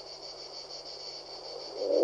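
Pigeon cooing: a quiet gap between coos with a steady high-pitched hiss behind it, then a low coo starting near the end.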